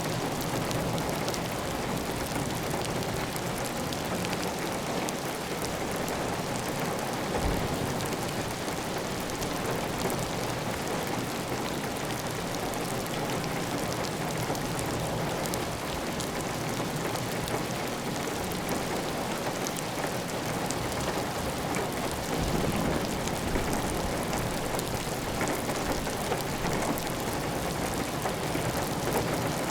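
Heavy rain falling steadily on a clay tile roof, with water running off the roof edge.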